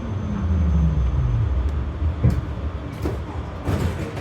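Berlin GT-type tram running, heard from inside the car: a low rumble with a motor tone that falls in pitch over the first second and a half, then a few short knocks from the track.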